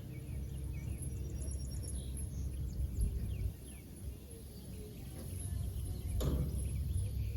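Steady low rumble, like wind on the microphone, with small birds chirping now and then in the first few seconds, and a single sharp knock about six seconds in.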